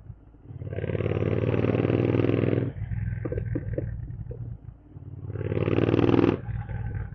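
Royal Enfield Continental GT 650's parallel-twin engine on a Code 6 tune, revved twice over a low idle. Each rev cuts off sharply, and the first is followed by a few sharp exhaust pops.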